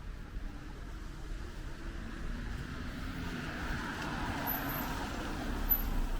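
A car driving along the street after rain, the hiss of its tyres on the wet road swelling as it draws near.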